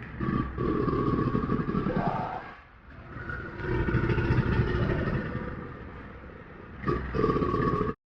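A large animal's deep, rasping growls in three long stretches, cutting off suddenly near the end.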